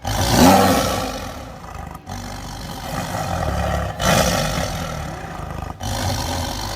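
A large animal roaring loudly over and over, in short recordings cut together about every two seconds.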